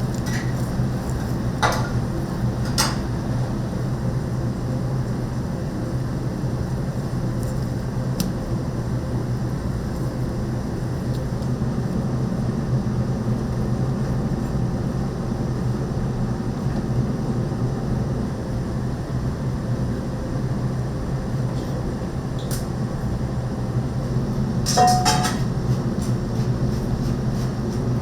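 Restaurant kitchen sounds: a steady low hum with a few sharp clinks of kitchenware, the loudest a cluster near the end that rings briefly.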